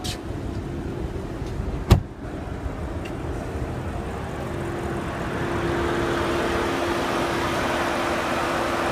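2014 Audi S6's 4.0-litre twin-turbo V8 idling steadily, with a single sharp clack about two seconds in. The engine sound grows louder from about five seconds in.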